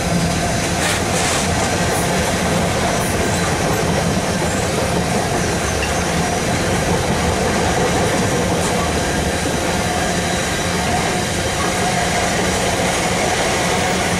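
A train passing on the line: a steady, loud noise of wheels running on rail with no pause, and a few faint ticks about a second in.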